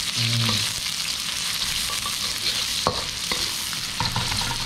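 Sliced shallots sizzling in hot oil in a wok as a metal spatula stirs them, with a few sharp scrapes and clicks of the spatula against the wok, mostly in the second half.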